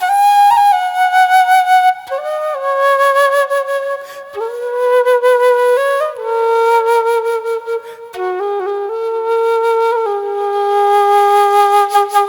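Background music: a flute playing a slow melody of held notes that step up and down in pitch.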